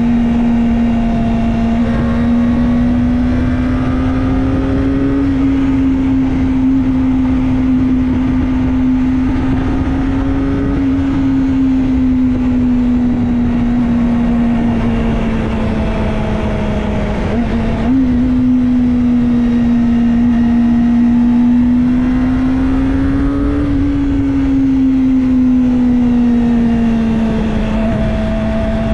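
Kawasaki Ninja ZX-25R's 249 cc inline-four engine running at a steady cruise, its pitch slowly drifting up and down, with a brief dip and a jump about seventeen seconds in. A steady rush of noise lies under it.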